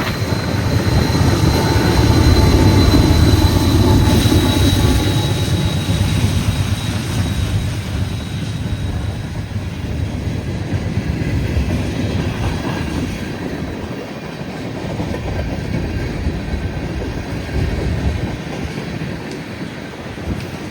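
Freight train cars rolling past with a steady heavy rumble of wheels on rail, loudest in the first few seconds and easing after. A thin high wheel squeal runs over the first few seconds.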